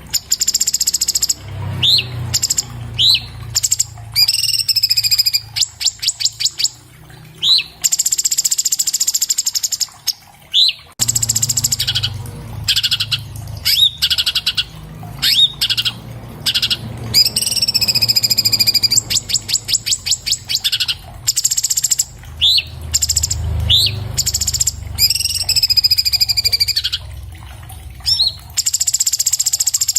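Orange-bellied leafbird (cucak cungkok, Chloropsis hardwickii) singing a fast, varied song. High whistled phrases alternate with rapid rattling trills and short upward-slurred notes, over a low background rumble.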